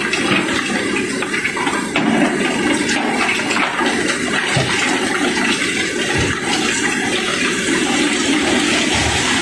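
Cobblestones pouring in a steady stream while a barge is unloaded: a continuous dense rushing clatter of rock on rock, with a few low thuds.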